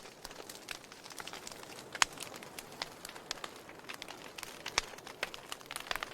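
Wood logs burning in a fireplace, crackling with irregular sharp pops over a soft hiss; the loudest pops come about two seconds in and again just before five seconds.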